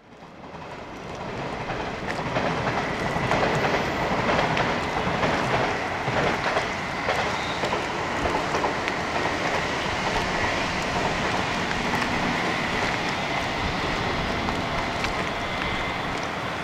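JR 381 series electric express train running along the line, its wheels clicking over the rail joints over a steady running rumble, with a thin high whine running through it. The sound rises over the first two seconds and then holds steady.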